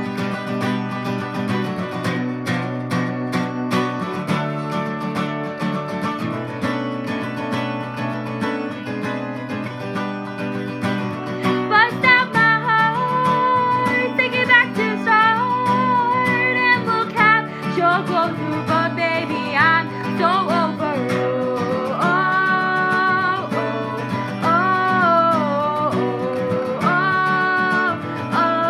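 Acoustic guitar being strummed, with a voice starting to sing a melody over it about twelve seconds in.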